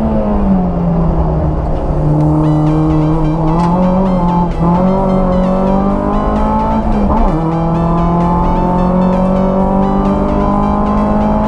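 Renault Clio 172's 2.0-litre four-cylinder engine under hard acceleration, heard from inside the car, its pitch climbing in each gear with gear changes about four and a half seconds in and again near seven seconds. A dance track with a steady beat plays over it from about two seconds in.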